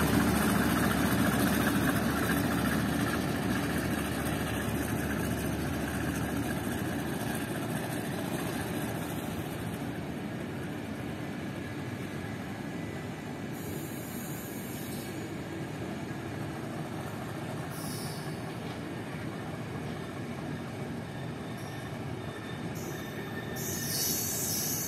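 Passenger coaches rolling along the rails as the train pulls out. The locomotive's engine fades over the first several seconds, leaving a steady rumble of wheels on rail, with brief high squeals a few times from about the middle on.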